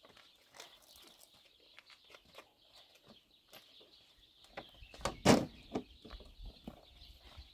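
Outdoor rural background with scattered small clicks and knocks over a faint steady high hiss, and one louder, short sound a little after five seconds in.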